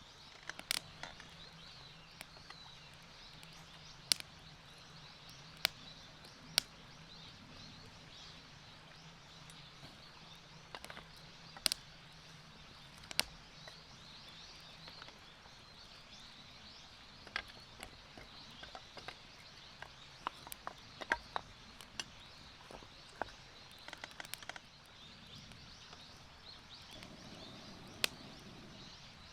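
Wood campfire crackling: irregular sharp pops and snaps of burning firewood over a faint steady hiss.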